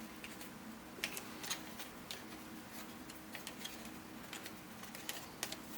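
Small 3D-printed plastic puzzle pieces clicking and rattling against each other as they are handled and fitted together by hand, in irregular light ticks with a few sharper clicks about a second in and near the end.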